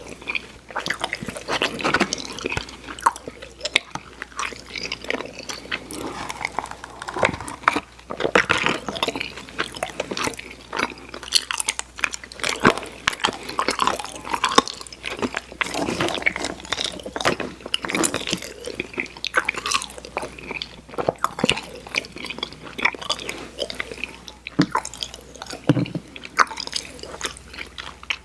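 Close-miked chewing of Airheads Xtremes sour candy: continuous wet chewing with many small mouth clicks, at an uneven rhythm.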